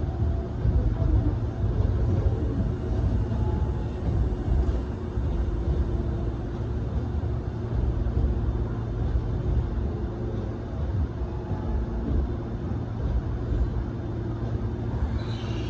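Steady low rumble and hum of electric trains in a station, with a train moving on the next track. A brief falling tone sounds near the end.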